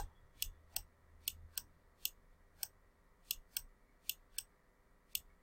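About a dozen sharp, irregularly spaced clicks of computer keys being pressed to fire a digital puppet's expression triggers.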